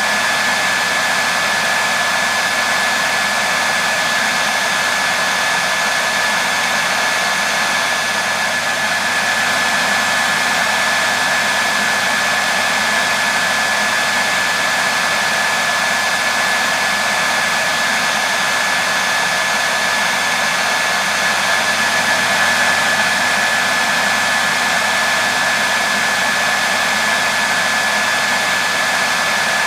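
Hair dryer blowing steadily, a constant rushing noise with a thin high whine from its motor and fan.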